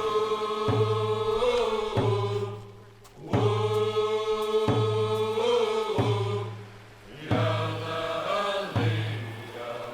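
Group of Kwakwaka'wakw singers chanting long held notes in phrases of a few seconds, over a drum struck steadily about once every 1.3 seconds.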